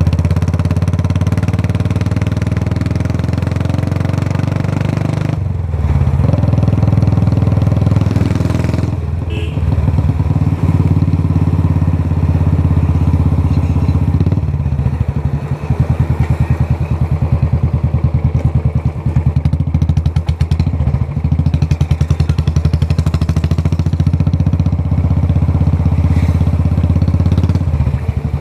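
Royal Enfield Classic 350's single-cylinder engine running through a short-bottle Punjab silencer, giving a deep, steady exhaust beat. The note drops away briefly a few times, and in the second half it settles into a slower, evenly pulsing thump.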